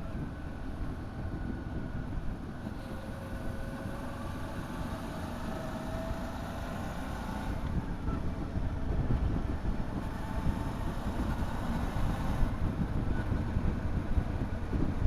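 Motorcycle engine running on the road, its note rising and falling as it speeds up and slows, over a heavy low rumble of wind and road noise. It gets a little louder about halfway through.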